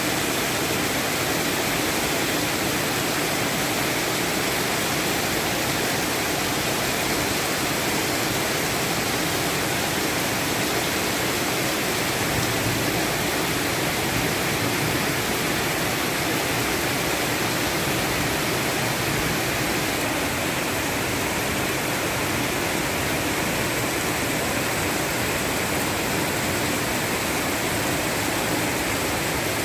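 Heavy storm rain pouring down in a steady, dense hiss.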